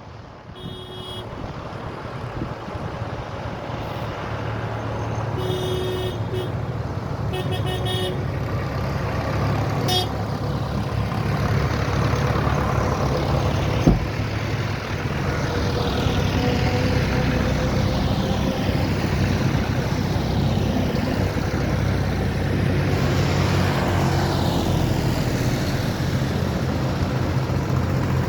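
A line of tractors arriving and driving past, their engines growing louder over the first dozen seconds and then running steadily as they pass one after another. A horn toots briefly three times in the first eight seconds or so, and there is a single sharp knock about halfway through.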